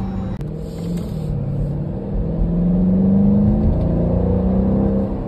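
Car engine heard from inside the cabin while driving, pulling under acceleration: its note climbs and is loudest a little past the middle, then holds steady.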